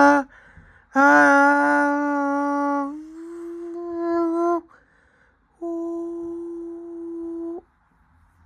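A person humming long held notes: one from about a second in, stepping slightly higher in pitch partway through, then after a pause another held note; it goes quiet near the end.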